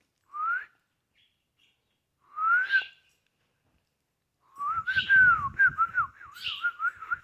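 A person whistling to small birds: two short rising whistles, then a longer wavering, warbling whistled phrase that starts about halfway through.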